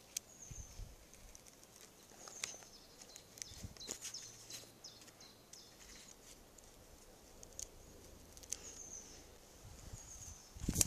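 Birds calling in short, high-pitched chirps repeated throughout, with scattered light clicks and knocks and a louder knock right at the end.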